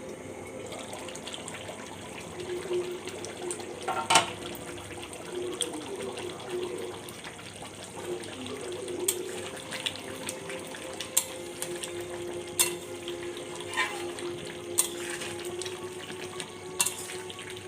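Food frying in a pan with a steady sizzle, while a spoon clinks against the pan now and then as it is stirred, about six times.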